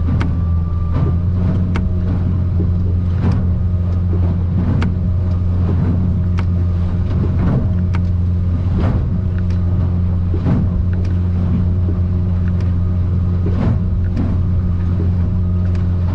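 Outboard engine of an aluminium fishing boat droning steadily at low cruising speed, heard inside the cabin. Irregular knocks and thuds about every second come as the hull meets the swells in rough water.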